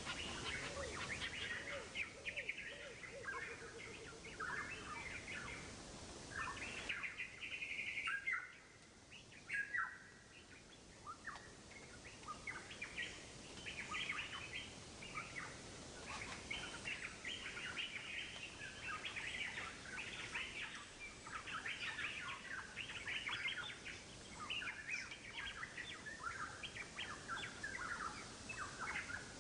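Birds chirping, many short high calls overlapping in a busy chorus.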